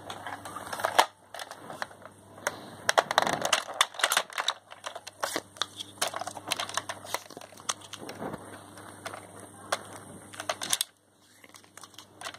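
Irregular clicks and rustling from something being handled close to the microphone, cutting out briefly near the end.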